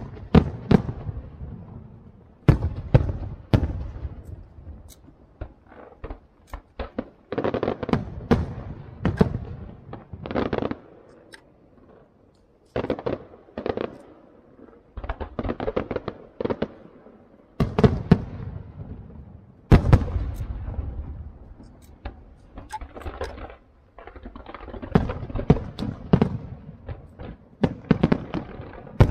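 Fireworks display: aerial shells bursting one after another in quick clusters, sharp bangs with crackling in between. There are short lulls about twelve and twenty-three seconds in.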